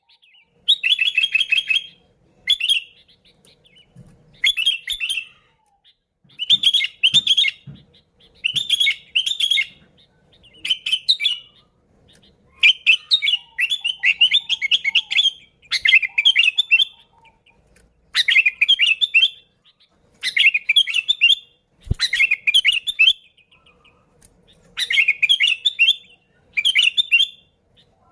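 Sooty-headed bulbul (kutilang) calling lively in repeated bursts of quick, bubbly chirps, a new burst every second or two.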